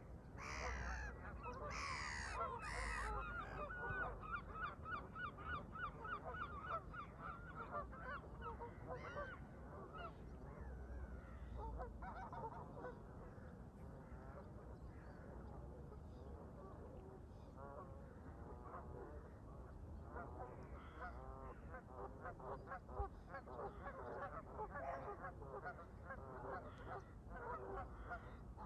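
A flock of Canada geese honking over and over, many calls overlapping. A louder, higher burst of calls comes in the first few seconds, then a quick run of honks.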